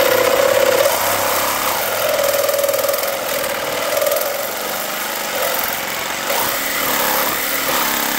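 Reciprocating saw with a long demolition blade cutting into a large transformer, its motor running steadily under load with the pitch wavering as the blade bites.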